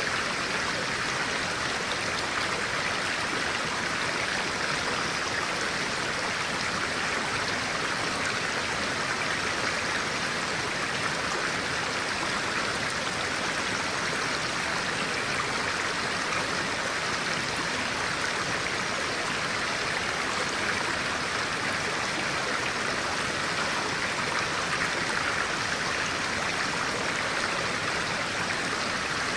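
Clear-water stream flowing steadily over rocks: an even rush of water without breaks.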